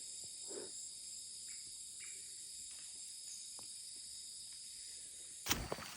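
Rainforest insect chorus: a steady, high-pitched layered buzzing and trilling of crickets and other insects, with faint scattered rustles. Near the end, louder footsteps break in.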